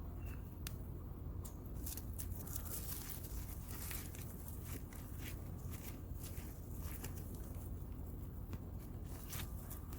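Hands digging through loose garden soil and pulling at sweet potato roots and vines: irregular rustling and crackling, over a steady low rumble.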